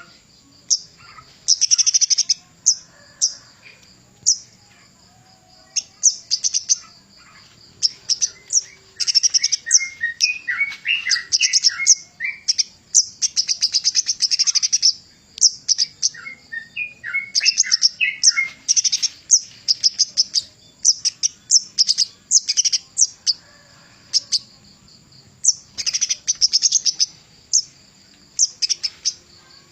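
Kemade gunung (mountain flowerpecker) singing: repeated bursts of rapid, very high-pitched chattering trills, broken twice by a short run of lower notes.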